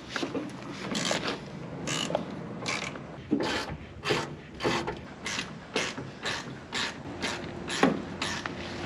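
Hand ratchet wrench working loose seat-mounting bolts in an old pickup's cab, its pawl rasping in short strokes about twice a second.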